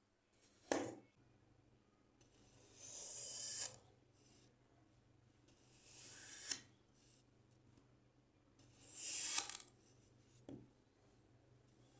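Sand being cut: a short crunch about a second in, then three longer grainy crunching cuts, each growing louder to a sharp finish, and a faint tap near the end.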